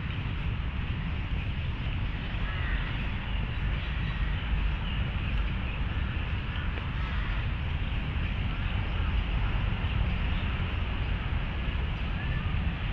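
Steady low rumble of distant city traffic, with faint voices in the background.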